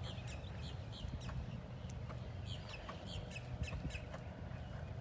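Birds chirping: many short, quick, falling chirps over a steady low rumble.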